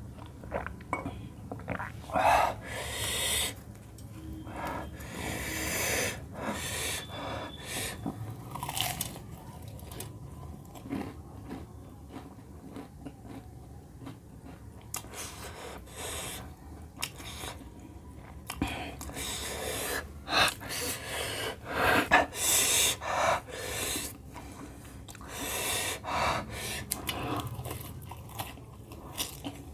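Close-miked chewing and biting of fried samosas, the crisp pastry crunching in irregular bursts, with loud breaths between mouthfuls.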